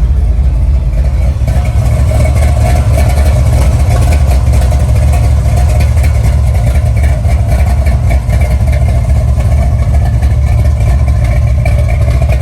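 598-cubic-inch Dart Big M big-block V8 idling loudly and steadily after a cold start.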